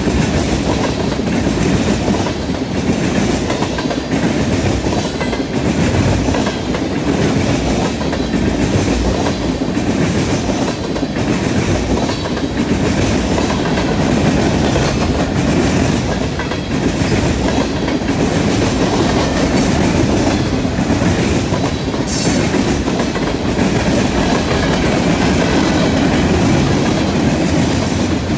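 Freight cars of a passing train (tank cars, covered hoppers, a gondola) rolling by close up, with a steady heavy rumble and a rhythmic clickety-clack of wheels over rail joints and the junction switch. A brief high screech about three-quarters of the way through.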